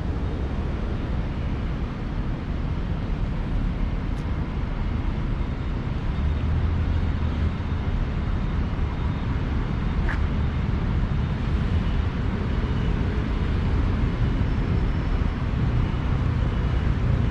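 Steady low rumble of street traffic, with a faint click or two.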